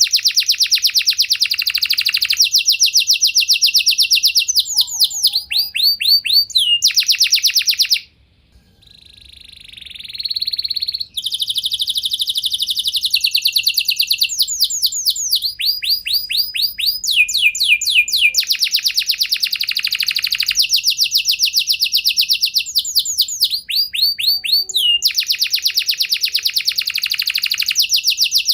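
Domestic canary singing: loud rolling trills of rapidly repeated notes, switching to a new phrase every second or two, with a pause of about three seconds about eight seconds in.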